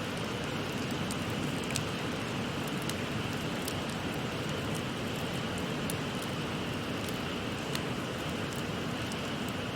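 A wood fire crackling with scattered sharp pops, over the steady rush of a babbling river.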